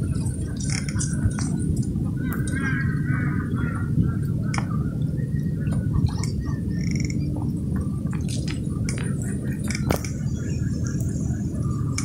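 A steady low rumble, with scattered short bird chirps and calls above it.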